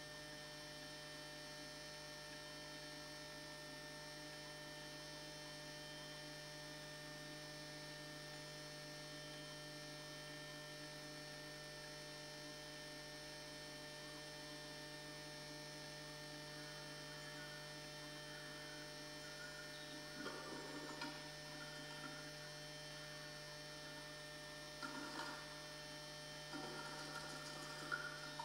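Steady electrical mains hum with a stack of thin steady tones, typical of a wired camera's audio feed picking up interference. Several short scratchy noises break in during the last third.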